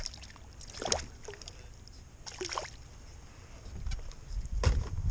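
Handling noises in a kayak: short knocks and rustles at about one, two and a half and just under five seconds in, with low rumbling building near the end.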